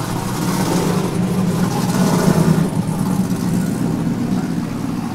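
Car engine running, growing louder to a peak a little over two seconds in, then easing off.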